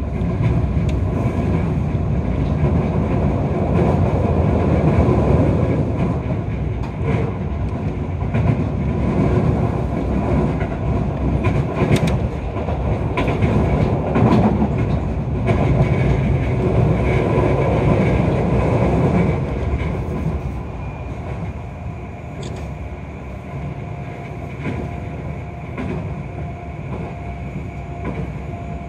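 Keio 5000 series electric train running, heard from inside the passenger car: steady wheel-and-rail noise with scattered clicks over the rail joints. It grows quieter about two-thirds of the way through.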